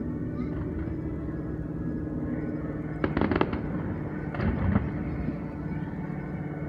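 Distant aerial fireworks bursting over a steady background hum. A cluster of sharp pops and crackles comes about three seconds in, and another burst follows about a second later.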